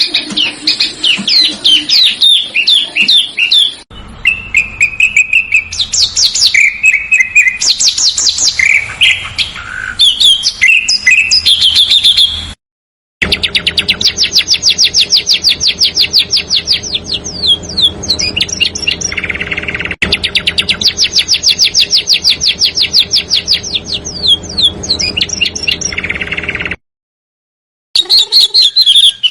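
Songbird song from a bird-song training recording: varied whistles and chirps, then, after a short silent cut, long fast rolling trills of rapidly repeated high notes, ending in another cut and a new burst of song.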